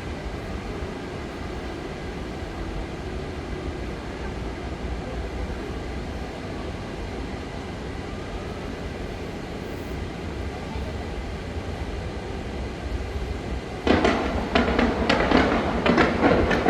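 Fireworks show: a steady low rumble, then about fourteen seconds in a sudden, loud, dense run of bangs and crackles.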